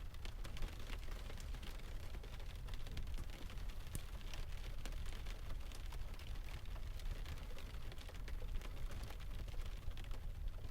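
Mixed rain, ocean and fireplace ambience: a steady low rumble of surf under a hiss of rain, dotted with many small sharp clicks and crackles.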